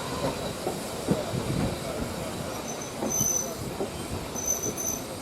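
A railway train moving slowly over the track with rumbling and clanking, its wheels giving short high squeals about three seconds in and again near the end.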